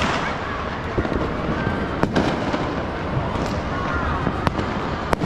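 Many New Year fireworks and firecrackers going off at once: a steady mass of crackling bursts, with four sharper bangs standing out.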